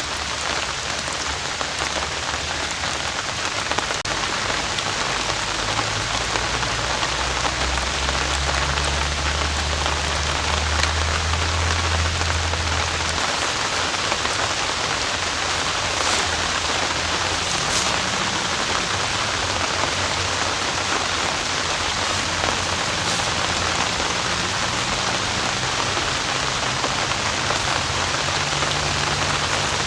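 Heavy tropical rain pouring steadily, a dense even hiss of drops, with a low rumble underneath that swells in the first half and then eases.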